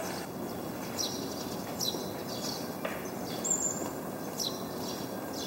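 Small birds chirping in short, high, downward-gliding notes about once a second, over a steady background hum of outdoor noise.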